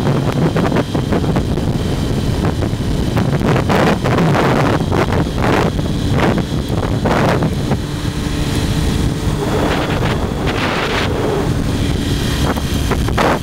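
Motorcycle running at riding speed, heard through heavy wind buffeting on the microphone.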